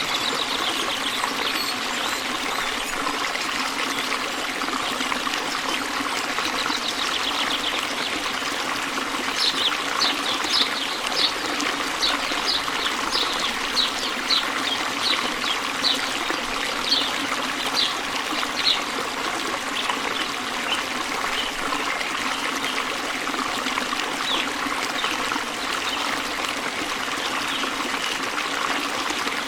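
Steady trickling, running water of a stream or small waterfall. A bird calls a run of short high notes, about two a second, from about a third of the way in until just past the middle.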